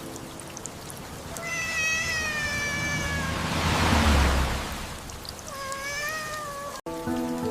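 A kitten meowing twice, each a long drawn-out cry, over a steady hiss of rain. Between the two cries a swell of noise with a low rumble rises and fades.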